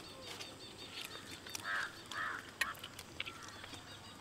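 Faint mouth sounds of people chewing bread, with small clicks and two short breathy sounds about two seconds in.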